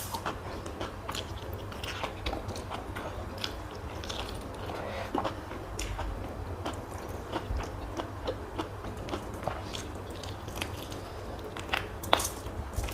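A person chewing and biting food close to the microphone: irregular short mouth clicks and chewing noises, with a sharper bite near the end.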